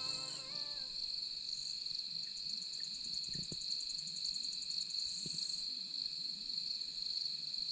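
Insects droning steadily at a high pitch, with a fast pulsing trill joining about two and a half seconds in and a short, higher burst of chirping about five seconds in.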